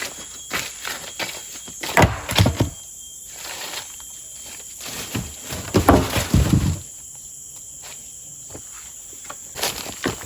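Footsteps and rustling in dry forest undergrowth, in two louder spells of crunching, over a steady high-pitched insect drone.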